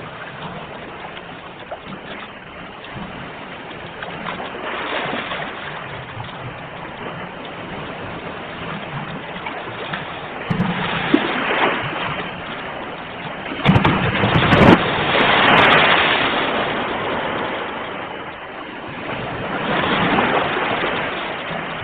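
Sea waves breaking and washing in, the roar swelling and falling away in several surges, with the loudest crash about two-thirds of the way through.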